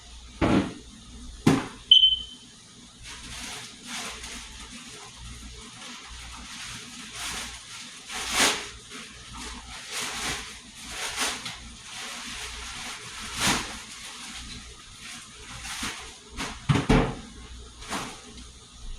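Kitchen cleaning and handling noises: a few knocks in the first two seconds, one followed by a brief high tone, then a run of short rubbing or swishing strokes with more knocks near the end.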